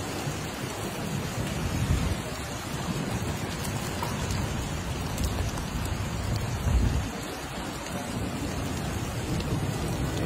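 Steady rain falling hard, with low rumbles swelling about two seconds in and again near seven seconds.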